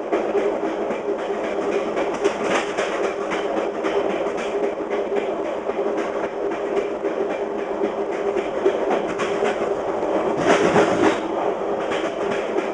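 Fast passenger train's wheels clicking over the joints of jointed rail, over a steady rumble and rush of running gear. The rush swells louder for about a second, about ten seconds in.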